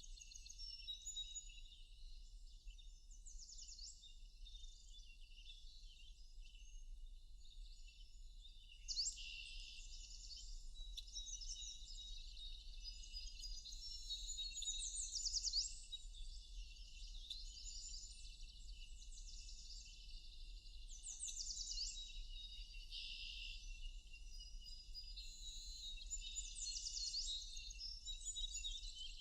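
Several wild birds singing and chirping at once in a forest, with high calls overlapping throughout and bursts of rapid descending trills repeating every few seconds.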